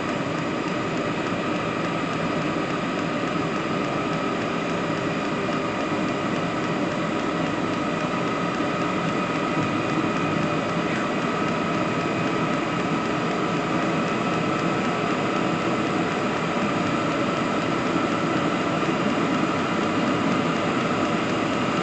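Diesel air heater running steadily, its blower and burner giving an even rush with a faint steady whine on top.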